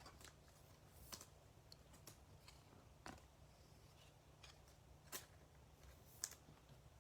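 Faint, irregular clicks and light taps of trading cards being handled, slid and set down, about seven in all; the sharpest comes near the end.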